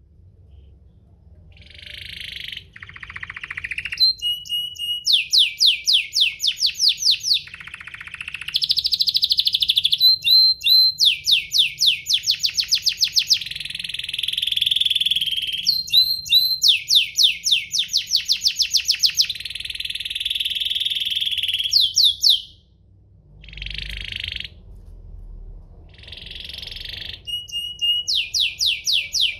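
Domestic canary singing long, loud song phrases. Rapid trills of evenly repeated notes alternate with buzzy, rolling held notes. The song breaks off briefly near the start and again about three-quarters through.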